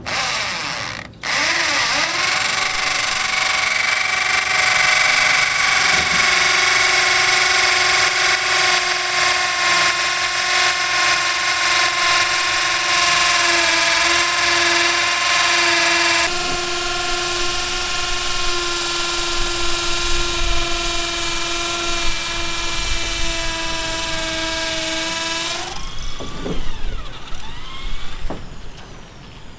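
A power tool running with a steady high whine and a hiss. It starts, cuts out briefly about a second in, then runs without a break for about 25 seconds, its pitch sagging slightly, before it stops.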